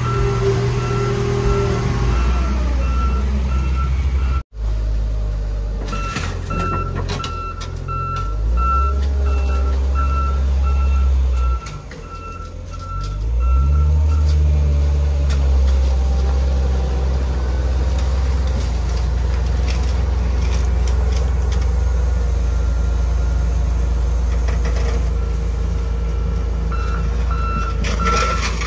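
Heavy loader's engine running hard, with its backup alarm beeping in a fast, even series that stops for stretches and starts again near the end. The engine eases off briefly about twelve seconds in, then comes back up.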